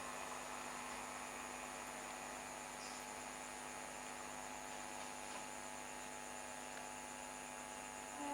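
Faint, steady electrical hum made of several thin, unchanging tones.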